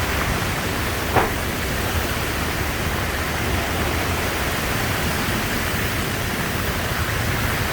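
Loud, steady rush of water, with one short knock about a second in.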